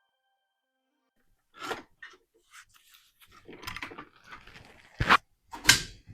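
Irregular clunks, scrapes and rattles of hands working a dirt-bike engine free of its frame, starting about a second and a half in, with two sharp knocks near the end.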